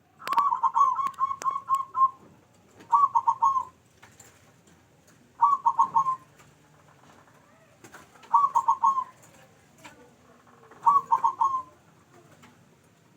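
Zebra dove (perkutut) cooing in five bouts of quick staccato notes, the first and longest lasting nearly two seconds, the rest under a second each, coming about every two and a half seconds.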